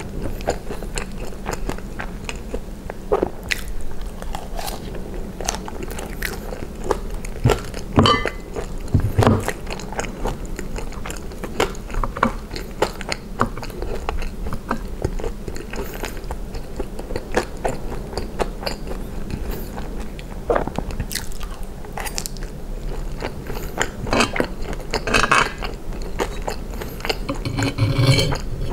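Close-miked chewing and biting of gravy-soaked fries and cheese curds (poutine), with many scattered short clicks from a metal fork against a cast-iron skillet.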